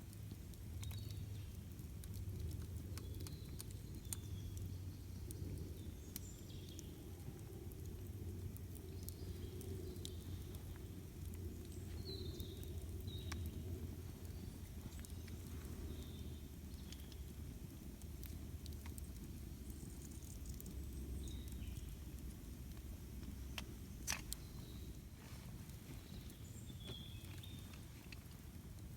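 Campfire crackling with scattered small pops and one sharper pop about 24 seconds in, over a steady low rumble. Short bird chirps come here and there throughout.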